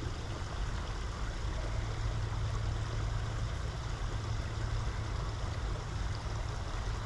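Steady rush of flowing creek water, with a low, steady rumble underneath.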